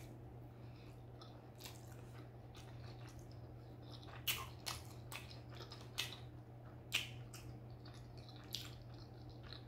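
A person chewing a bite of Cajun sausage: wet mouth smacks and clicks at irregular intervals, the strongest between about four and seven seconds in, over a steady low hum.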